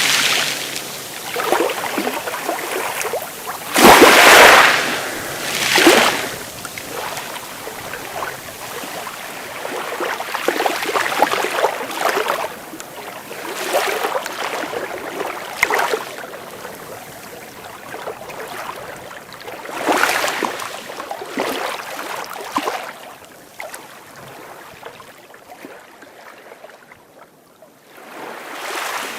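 Sea waves breaking in repeated surges of rushing water, the loudest about four seconds in, the later ones softer near the end.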